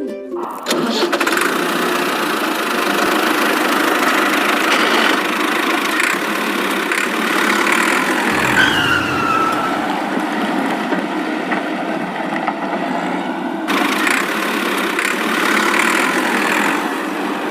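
A vehicle engine running steadily throughout, with a short falling whistle-like tone about nine seconds in.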